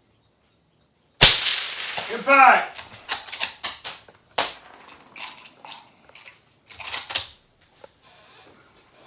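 A single suppressed rifle shot from a .243 Winchester rifle about a second in, sharp and loud with a tail that dies away over about a second. A run of smaller sharp clicks and knocks follows.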